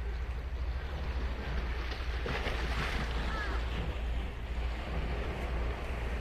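Ocean surf breaking and washing up a sandy beach, a wave building louder about two seconds in, over a steady low rumble of wind on the microphone.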